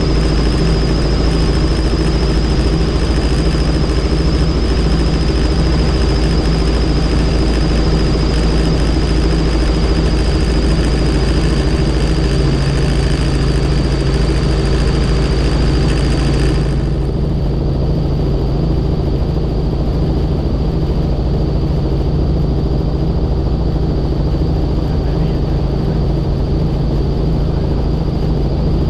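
Helicopter in flight: steady loud engine and rotor noise with a high, steady turbine whine over it. About two-thirds of the way through, the upper hiss drops away suddenly while the rumble and whine continue.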